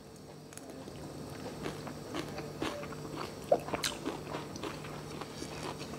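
A person chewing a mouthful of crunchy stir-fried mustard greens with rice, close to the mic: irregular small crunches and mouth clicks, with one sharper click about four seconds in.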